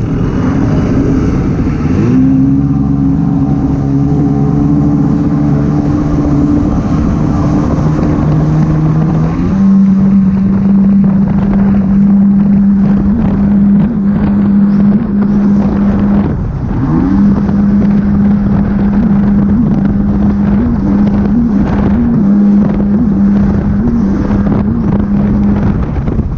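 Jet ski engine running hard at speed, its pitch stepping up about two seconds in and settling into a steady high note about ten seconds in, with a brief dip and surge partway through. Wind buffets the microphone over it.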